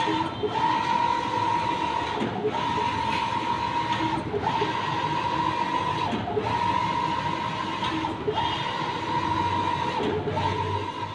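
Mimaki JV33-160 BS wide-format inkjet printer printing: the print-head carriage sweeps back and forth with a steady motor whine, broken by a short pause about every two seconds as each pass ends.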